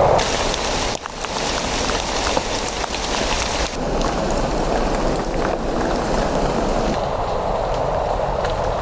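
Steady rain falling: an even hiss with individual drops ticking through it. The sound changes abruptly three times, about a second in, near the middle and near the end.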